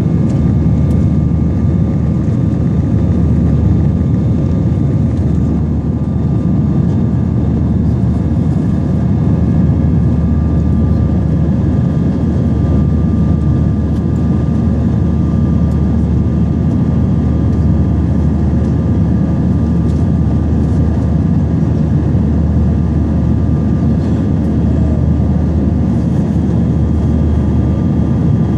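Airbus A320's jet engines running steadily, heard inside the cabin: a loud, even deep rumble with a few faint steady whining tones over it.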